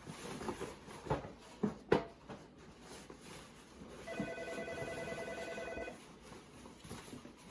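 Knocks and clatter of camp cooking gear being packed, then about four seconds in an electronic telephone ringer trills steadily for about two seconds and stops.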